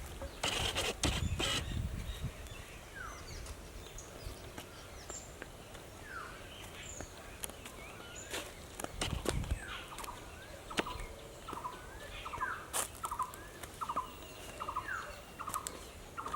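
Birds calling, one of them repeating a short, quick call about twice a second through the second half. A few low footstep thuds near the start and again about nine seconds in.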